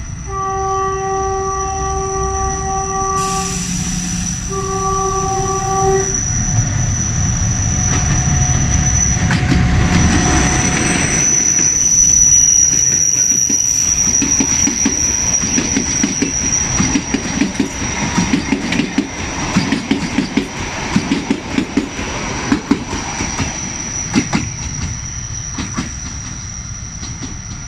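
A narrow-gauge train sounds two long horn blasts, then runs past close by with a heavy rumble and wheel clicks over the rail joints. The sound eases slightly near the end as the train moves away.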